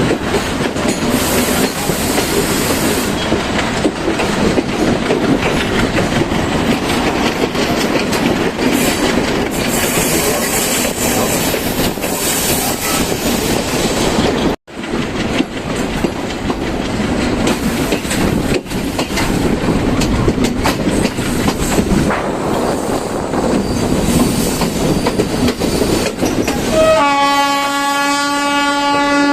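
Passenger train running along the track with a steady rumble of wheels and carriages. Near the end the train's horn sounds, one long held note.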